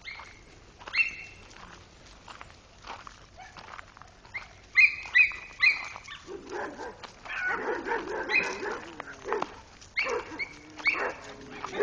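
Several dogs barking: a few single barks early, three quick loud barks about five seconds in, then from about six seconds many dogs barking at once.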